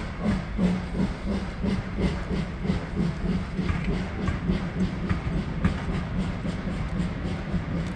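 Train running past, its wheels clattering over the rail joints in a quick, continuous run of knocks.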